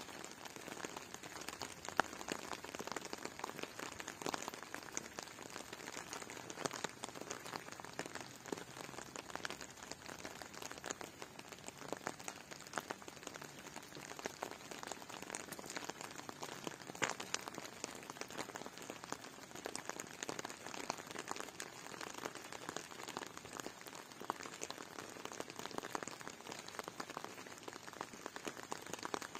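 Steady rain falling as a dense patter of drops, with an occasional louder drip.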